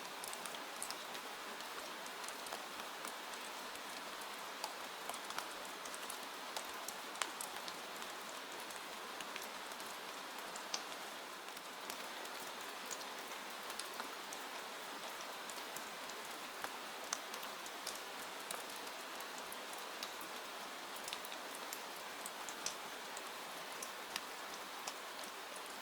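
Steady rain: an even hiss of rainfall with many scattered sharp ticks of single drops landing close by.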